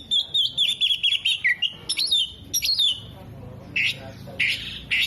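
Oriental magpie-robin (kacer) singing a fast, varied song: a run of rapid wavering, warbling notes mixed with sharp clicks, then a few short hissy notes near the end.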